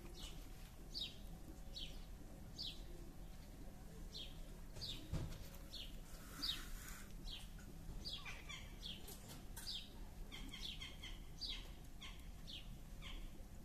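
Small birds chirping: a short falling chirp repeated about once a second, joined by several overlapping chirps in the second half. A single low thump about five seconds in.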